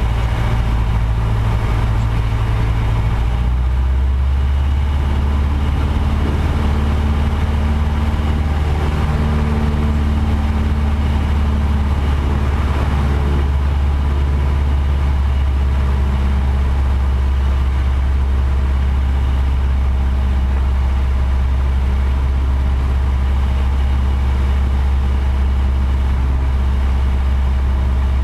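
Light aircraft's piston engine and propeller droning steadily. The pitch drops a step about three seconds in, then holds even.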